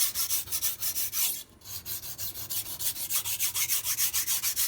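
Steel blade of a MAC chef's knife stroked quickly back and forth on a sharpening stone, a rasping rub about five strokes a second. The strokes pause briefly about one and a half seconds in.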